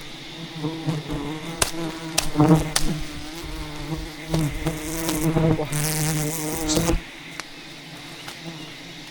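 A swarm of honeybees buzzing around their nest: a loud, steady, wavering hum with a few sharp clicks, stopping abruptly about seven seconds in.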